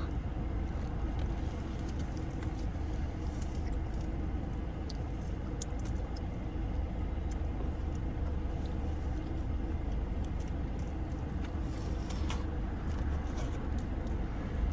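Car engine idling, heard from inside the cabin: a steady low rumble, with a few light clicks over it.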